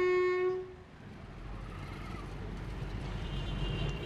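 A train horn sounding, cutting off about half a second in, followed by the low rumble of the train running, slowly growing louder.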